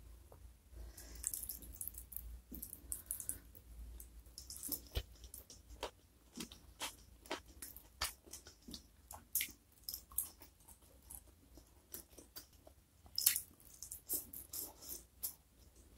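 Close-miked eating sounds: wet chewing and lip smacks as a mouthful of rice, sambal and chicken is eaten, with squelching as fingers knead rice in sambal. Irregular quick clicks and smacks, loudest in a cluster near the end.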